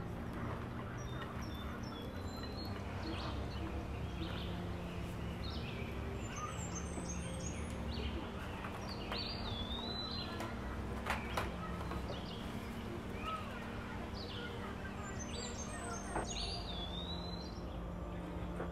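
Small birds singing, a short chirping phrase with quick upward-and-down whistles repeated several times, over a steady low hum. Two sharp clicks a little past the middle.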